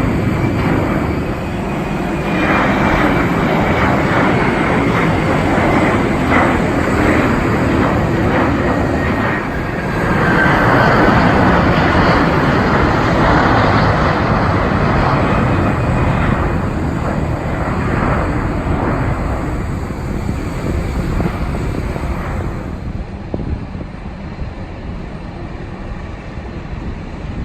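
Jet airliner's engines passing at close range: a loud rumble with a high whine that slowly falls in pitch, dying away about three-quarters of the way through.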